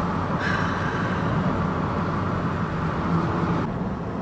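Car driving, with steady engine and road noise. An added hiss comes in about half a second in and stops shortly before the end.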